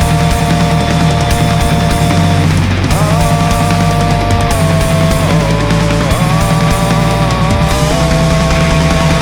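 Heavy metal band playing an instrumental passage: a lead guitar line holds long notes, sliding up about three seconds in and bending later, over distorted rhythm guitars, bass and drums.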